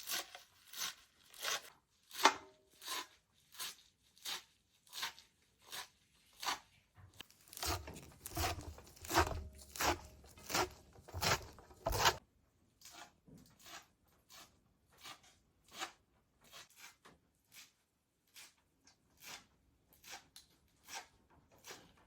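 Crisp, regular strokes of food being prepared by hand, about two a second. Midway they come louder and closer together, with dull thuds beneath, then turn fainter.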